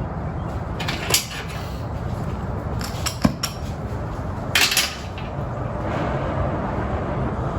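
A few light metallic clicks and clinks at the oxy-fuel cutting torch as its tip is cleaned, over a steady low background noise.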